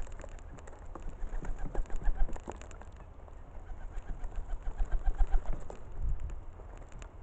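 Pigeon cooing in two bouts of quick pulsing notes, about two seconds in and again from about four to six seconds, over a low rumble.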